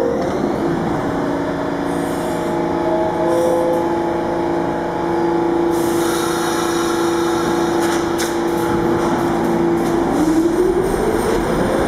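R46 subway train at a station: a steady electrical hum with held tones and a brief air hiss, then the traction motor whine rises steadily in pitch near the end as the train starts to pull away.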